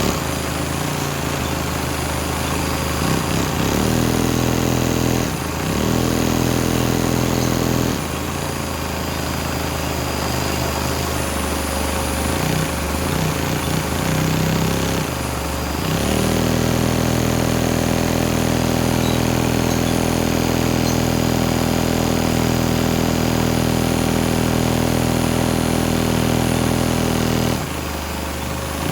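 Lego vacuum engine with an enlarged-valve carburetor, running on suction from a vacuum cleaner: a fast, steady engine-like chugging over the vacuum's motor noise. Its speed shifts and it falters briefly a few times, then it runs evenly from about halfway on.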